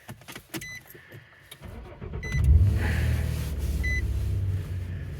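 Truck engine starting about two seconds in and then idling steadily, with a dashboard chime beeping about every second and a half. Clicks and rustling come first.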